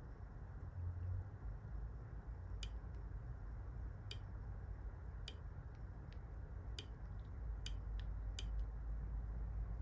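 Irregular sharp clicks of small fly-tying tools at the vise, about six of them a second or so apart with fainter ticks between, during hackle winding.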